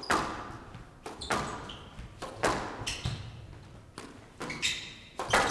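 Squash rally: the ball cracking off rackets and the court walls, sharp knocks about once a second, with short high-pitched shoe squeaks on the court floor between hits.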